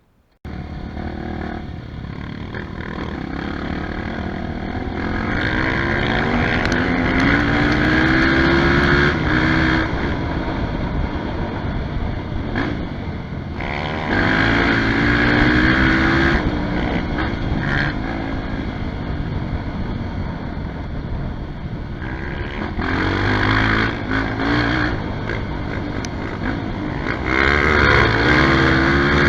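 Dirt bike engine revving hard, its pitch climbing in several pulls and easing off between them. It cuts in about half a second in.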